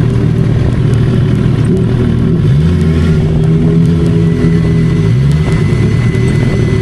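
Sport motorcycle engine running under way with wind noise, its note climbing as it accelerates about two and a half seconds in and again about five seconds in.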